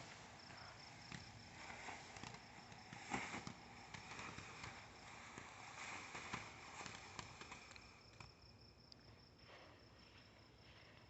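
Near silence outdoors: faint footsteps and scuffs on the ground, with a faint high-pitched insect chirring, quieter still in the last few seconds.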